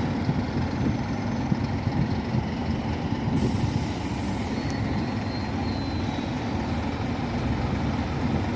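Scania N230UB OmniCity bus heard from inside the saloon: a steady low diesel engine rumble with road and body noise. About a third of the way in a high hiss starts and carries on.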